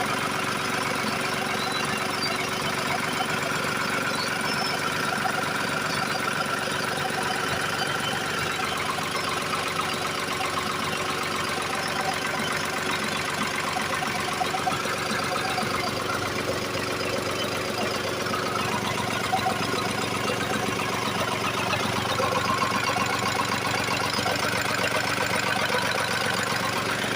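Lister diesel engine running steadily.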